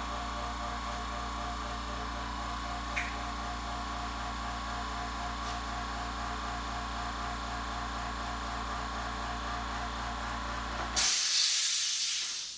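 Steady mechanical hum made of several fixed tones. About a second and a half before the end it gives way to a loud hiss that fades away.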